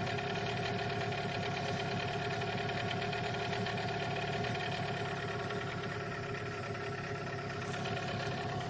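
A new outboard boat motor running steadily at an even pitch during its break-in.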